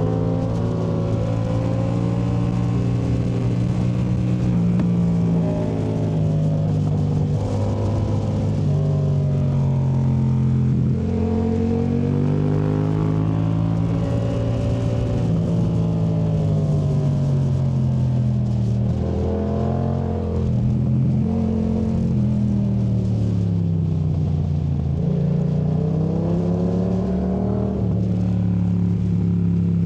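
2019 Yamaha MT-07's 689 cc parallel-twin engine through a Yoshimura AT2 Race exhaust, revving up and easing off again and again as the bike is ridden hard through tight corners, mostly in third gear.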